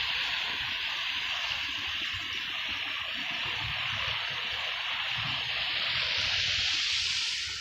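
Steady rush of river water falling over a small waterfall, swelling a little near the end and then dropping away.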